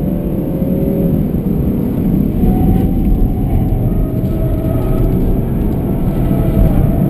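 BMW 320d Touring's four-cylinder turbodiesel heard from inside the cabin under hard driving, its pitch dropping about a second in, then rising as it accelerates, easing briefly and climbing again near the end, over a steady rumble of road and tyre noise.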